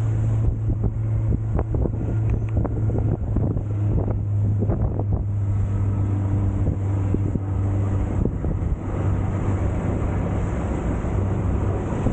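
Surf boat's motor running steadily under way, with wind buffeting the microphone. A run of short knocks comes in the first five seconds.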